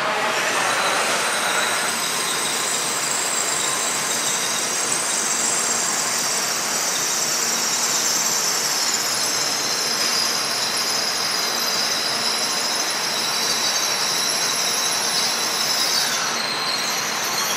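Shinkansen train on the station tracks with a steady high-pitched squeal over a rushing noise. The squeal edges slightly lower in pitch partway through.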